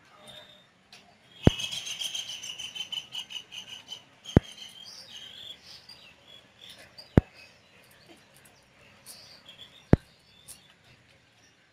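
Small birds chirping, with a fast chirping trill starting about a second and a half in and lasting about three seconds, then scattered short chirps. A sharp click cuts through four times, evenly spaced about three seconds apart.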